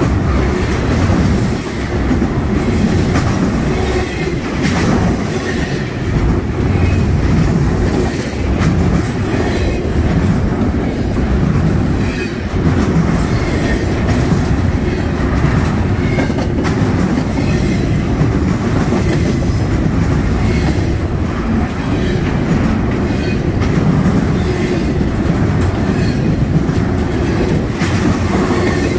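Norfolk Southern intermodal freight train's double-stack well cars and trailer flatcars rolling past: a steady rumble of steel wheels on rail with a running clickety-clack over the rail joints.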